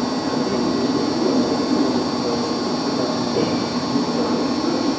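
Steady drone of running machinery, with several high steady whining tones over it, typical of electric pump motors running in a plant room.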